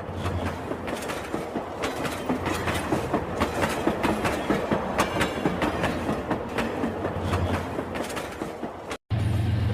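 Battery-powered toy train running on its track: a busy, uneven clatter of small clicks from the wheels and track, over a low motor hum. Near the end the sound cuts out for an instant and a steadier hum follows.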